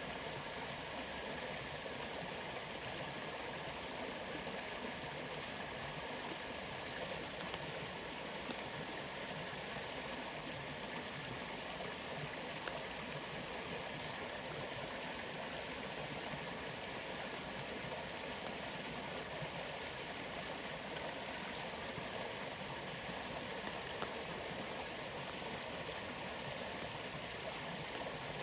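Waterfall's steady rushing water, an even wash of noise that does not change, with a few faint ticks here and there.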